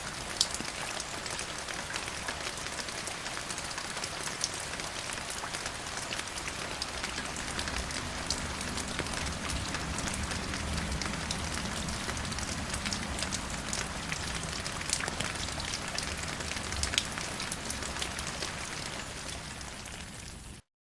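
Steady rain falling, with many individual drops ticking sharply on a surface, and a low rumble underneath in the second half. It fades a little and then cuts off suddenly near the end.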